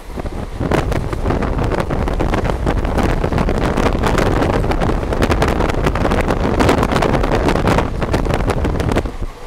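Wind buffeting the microphone at a moving passenger coach's open doorway, over the rumble and rattle of the coach running on the rails at speed. It drops off suddenly near the end.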